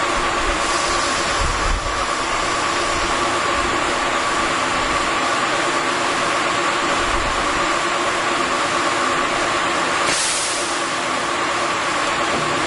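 Heavy industrial machinery running steadily, a loud even noise with a held whine, and a brief hiss about ten seconds in.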